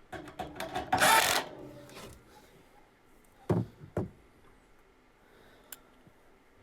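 Hard plastic parts being handled: a rattle of clicks and a loud scrape about a second in, then two sharp knocks about half a second apart, as the furnace's plastic control-board box is fitted back in place.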